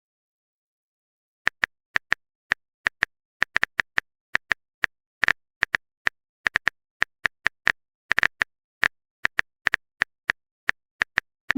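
Smartphone on-screen keyboard typing clicks: an irregular run of short, identical ticks, about three a second, starting after a second and a half of silence.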